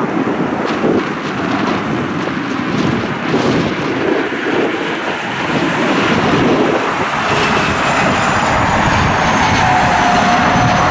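Dassault Falcon 2000 business jet's engines whining as it comes in to land, growing louder in the second half with a high whine that falls slowly in pitch. Heavy wind buffets the microphone throughout.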